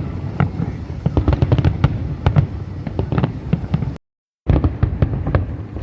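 A fireworks display: a rapid, irregular barrage of bangs from shells bursting, overlapping one another. About two-thirds of the way through, the sound cuts out completely for about half a second, then resumes.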